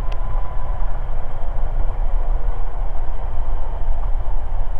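Cessna 172's four-cylinder air-cooled piston engine and propeller running steadily, heard inside the cockpit as a constant low rumble, with a short click near the start.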